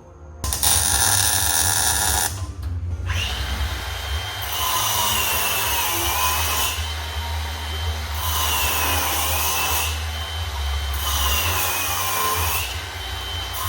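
A power tool running hard in a metal fabrication shop. Its high whine sags in pitch several times as it bears into the work and recovers each time, with a short break about two and a half seconds in.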